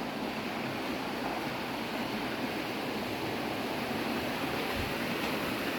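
Steady rushing of a canyon creek, an even unbroken noise with no distinct events.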